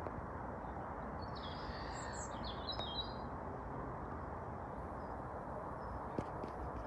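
A small bird twittering in a quick run of high chirps between about one and three seconds in, over a steady outdoor background noise.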